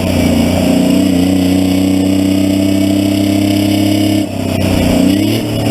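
Detroit Diesel 6V71 two-stroke V6 diesel in a cab-over Kenworth, running steadily under load while pulling a semi trailer. About four seconds in, the sound dips briefly, then the engine note climbs again.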